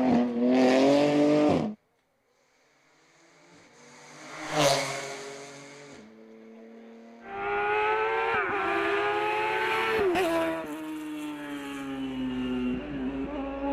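Hill-climb race cars at full throttle, in edited segments. A car's engine runs at high revs and cuts off suddenly. Another car approaches, passes close and fades away, then a third runs hard, its engine pitch dropping and climbing through several gear changes.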